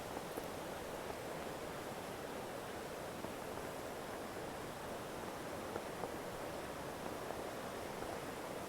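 Steady rushing of a creek's running water.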